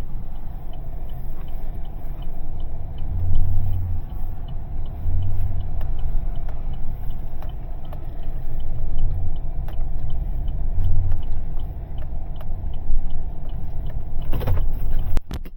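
A motor vehicle running with a steady low rumble that swells now and then, with a faint regular ticking over it. Just before the end there is a short clatter and the rumble drops away.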